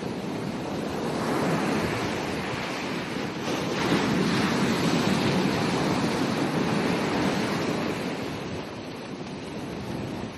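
Ocean surf breaking and washing up a beach. One wave swells in about a second in, is loudest around four seconds, and eases back near the end.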